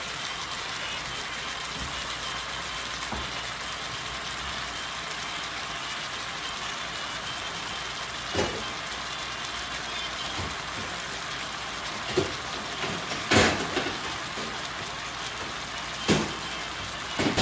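Chicken strips with onion and green pepper sizzling steadily in an electric skillet. Several short sharp knocks come over the second half.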